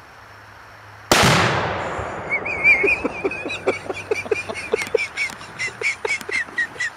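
.223 rifle shot about a second in, a single sharp crack with a decaying echo. It is followed by a rapid run of short squawking calls, two to three a second, until the end.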